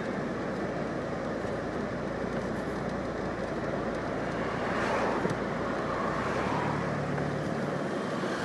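Steady road traffic and car noise, with a faint low hum joining in about six seconds in.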